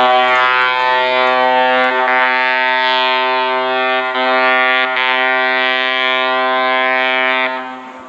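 A loud, buzzy horn-like tone held at one steady pitch for about eight seconds, rich in overtones, then cut off. It is a sound-effect clip of an annoying noise.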